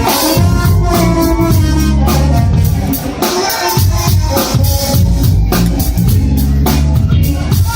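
A live band playing: drum kit, a bass line and guitar, with shaker percussion.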